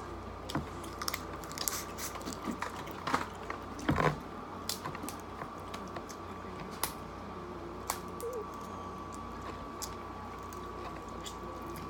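Close-up eating of lobster and crab: chewing and biting with scattered sharp clicks and cracks of shell, the loudest crack about four seconds in, over a faint steady hum.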